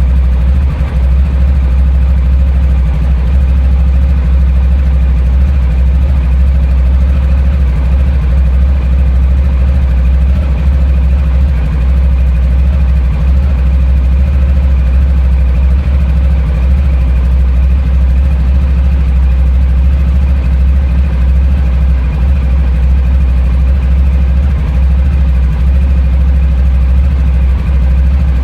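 Honda ST1100 Pan-European's V4 engine idling steadily as it warms up after a cold start.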